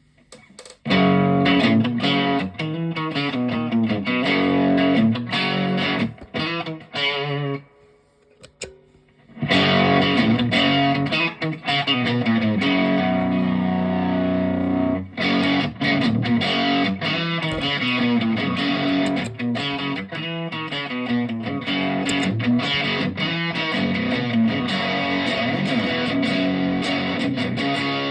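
Electric guitar with a P90 pickup, an Epiphone Les Paul, played through a Behringer Centaur overdrive pedal into a Supro Blues King valve amp, with a mild overdrive. A bluesy phrase breaks off for a moment about eight seconds in, then the playing resumes with a chord left ringing for a few seconds before more riffing.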